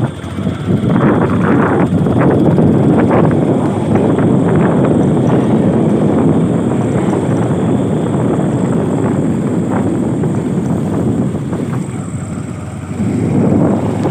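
Wind buffeting the microphone over the running noise of a moving vehicle, a loud and rough rush.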